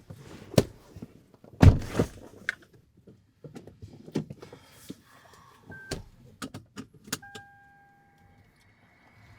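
A run of knocks and sharp clicks with one heavy thump about a second and a half in, and a steady beep lasting about a second near the end.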